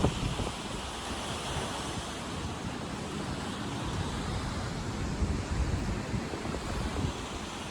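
Wind buffeting the microphone in uneven gusts over a steady wash of waves from the choppy lake.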